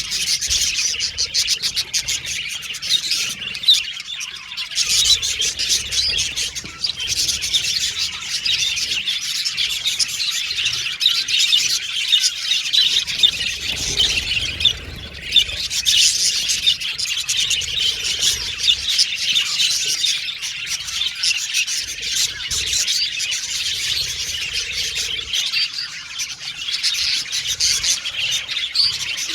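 Budgerigars chirping and warbling continuously, a dense chatter of rapid high twittering notes, with a brief lull about halfway through.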